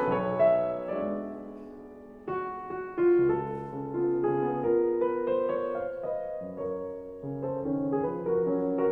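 Background piano music: slow, gentle phrases of held notes, fading about two seconds in before the next phrase begins.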